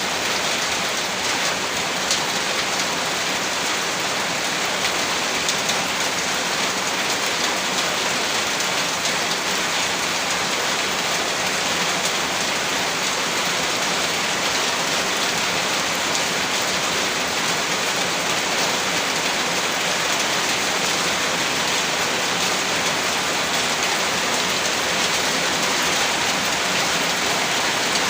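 Heavy rain falling steadily, an even hiss with dense patter of drops hitting surfaces.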